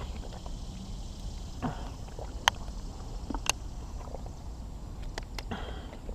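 A person drinking from a plastic water bottle: a few sharp clicks from the bottle scattered through, and two short soft sounds, about two seconds in and near the end, over a steady low rumble.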